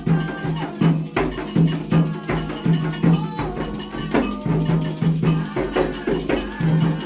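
Afro-Brazilian Candomblé ritual percussion: hand drums and a metal bell struck in a steady repeating rhythm.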